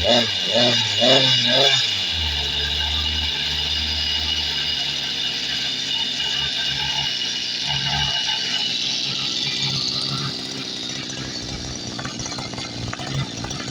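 Goped Sport's small two-stroke engine running, uneven and pulsing for the first couple of seconds, then steady; it gets somewhat quieter about ten seconds in.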